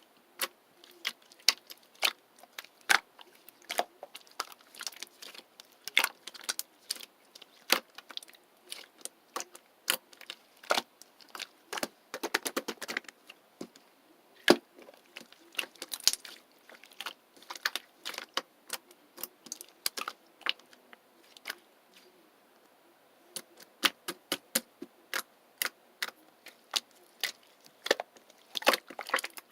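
Irregular sharp clicks and taps, one to several a second, with a quick run of rapid clicks about halfway through and again near the end.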